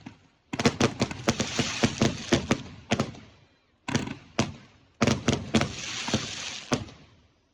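Fireworks going off in two rapid volleys of sharp bangs, with crackling hiss between the reports as the shells burst.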